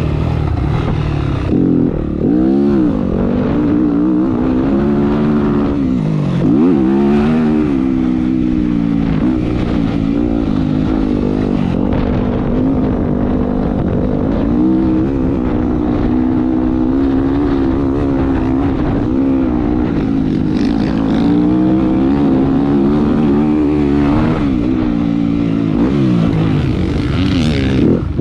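Motocross bike engine heard close up from an on-board camera, revving hard and continuously as the rider works the throttle around the track. The pitch climbs and drops again and again, with sharp dips and recoveries about two and a half and six and a half seconds in, and again near the end.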